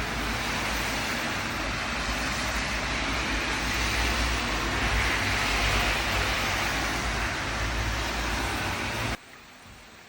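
Rain falling, heard as a loud, steady rushing hiss over a deep rumble. About nine seconds in it cuts off abruptly to a much quieter, even hiss of rain.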